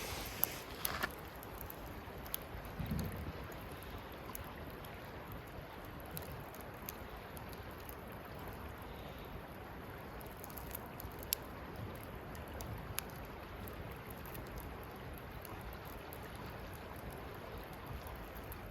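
Wood campfire burning with a steady soft hiss and scattered sharp crackles and pops at irregular intervals, plus a short low bump about three seconds in.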